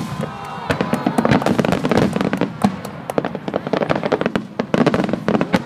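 Fireworks display: a dense, rapid string of sharp bangs and crackles.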